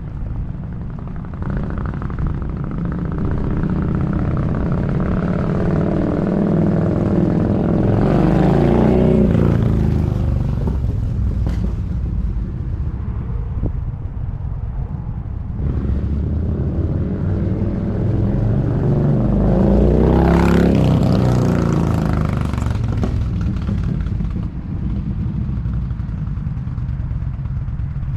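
Yamaha V-Star V-twin motorcycle riding past twice, its exhaust note growing louder as it approaches and dropping in pitch as it goes by, about 9 seconds in and again about 21 seconds in.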